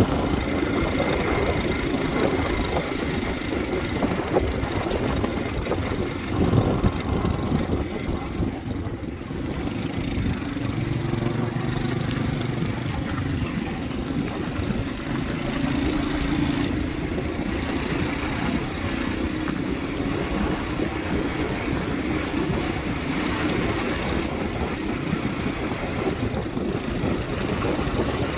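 Motorbike running steadily on the move: an engine hum under a constant rushing noise.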